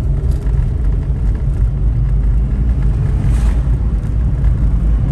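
Steady low rumble of a car driving on the road, heard from inside the cabin, with a brief hiss about three and a half seconds in.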